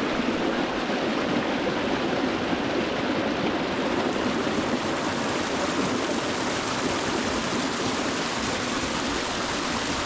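Water falling down a small waterfall's cascades, a steady, unbroken rush.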